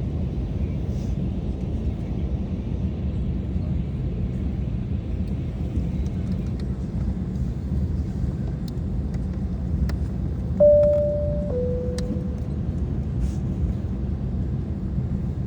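Steady low rumble of a Lufthansa airliner. About ten seconds in, a loud two-note falling chime sounds once.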